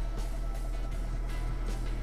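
Alfa Romeo Giulietta engine idling steadily, heard from inside the cabin, under background music with a beat.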